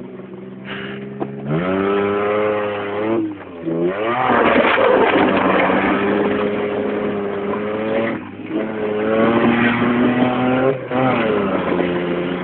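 Old car's engine running under load, its pitch dropping and climbing again several times with gear changes, and holding steady in between.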